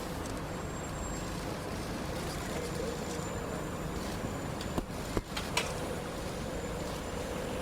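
Steady rumble of heavy engines and vehicles, with a faint steady drone and three sharp clicks about five seconds in.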